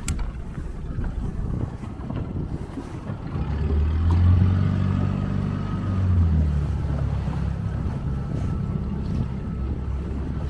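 Motorboat engine running steadily at low speed. Its note grows louder about halfway through, then eases back.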